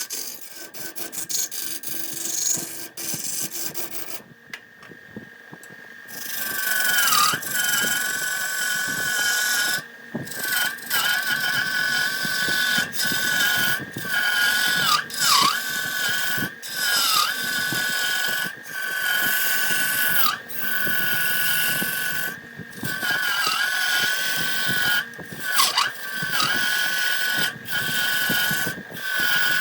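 Electric power tool running with a steady high whine that briefly drops in pitch again and again as it bites into the wood, broken by short gaps. It is quieter for the first few seconds.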